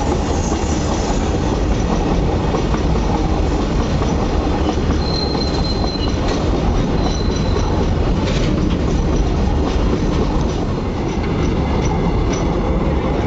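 Freight train's open wagons rolling past close by: a steady rumble of steel wheels on rail with sharp clacks over the rail joints, and a thin, high wheel squeal twice near the middle.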